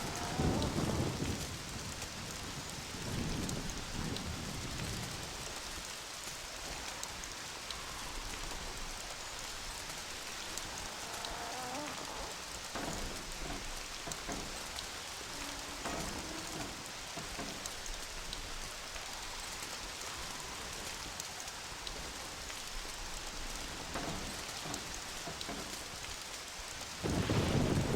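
Steady rain during a thunderstorm, with low rolling thunder rumbles in the first second or so, again about three seconds in, and once more near the end.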